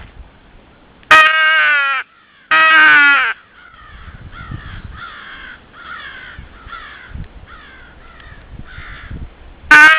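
Two loud, drawn-out caws blown on a Primos Power Crow hand call, each falling in pitch, answered by a string of fainter caws from wild crows about one a second, with another loud blast of the call near the end. Wind rumbles on the microphone underneath.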